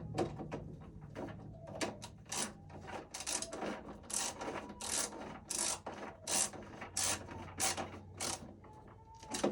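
Screwdriver turning a breaker's terminal screw down on a wire: a string of short scraping strokes, roughly one or two a second.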